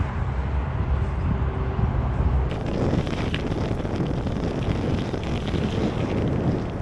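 Wind buffeting the microphone while cycling along a road, a steady low rumble.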